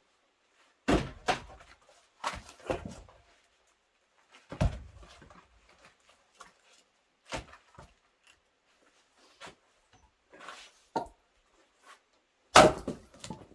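Axe chopping firewood: a run of heavy, sudden thuds as the blade strikes and splits the logs, loudest about a second in and near the end, with lighter knocks of wood between.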